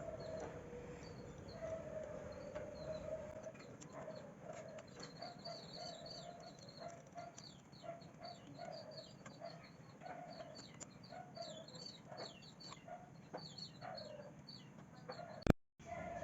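Birds calling: a run of short repeated clucking notes, with quicker high chirps over them. Near the end a sharp click is followed by a brief dropout.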